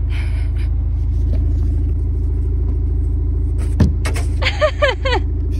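Car engine idling steadily with a low rumble, the parked car close by. A few short high-pitched squeals come about four seconds in.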